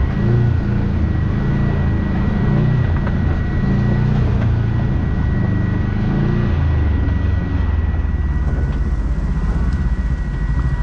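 Kawasaki KRX side-by-side's parallel-twin engine running at low trail speed, its revs rising and falling for the first several seconds and then holding steadier and lower. A thin, steady high whine runs underneath.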